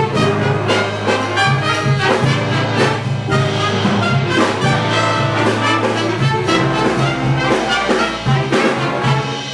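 Big-band jazz orchestra playing, with the brass section of trumpets and trombones to the fore over a held bass note and regular drum hits.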